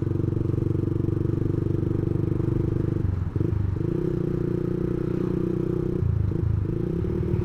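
Yamaha MX King 150's single-cylinder engine running through an aftermarket racing exhaust, a steady note that dips briefly twice, about three and about six seconds in.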